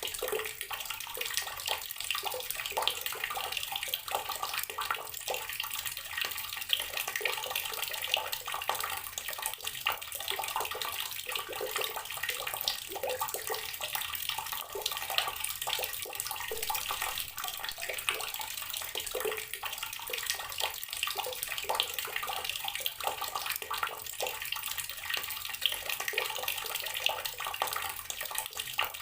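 Water tap running steadily, its stream splashing and spattering continuously.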